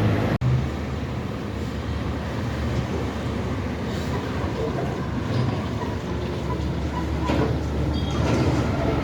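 Heavy loaded trucks on a highway: a steady low engine and tyre rumble, broken by a brief cut about half a second in.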